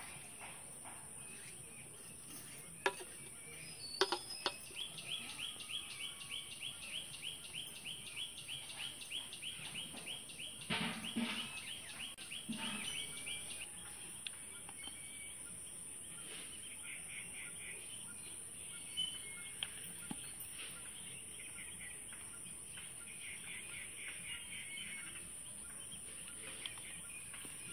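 Bird chirping: a fast, even run of short high chirps, about five a second, lasting several seconds, with fainter runs later. A few sharp knocks come just before it.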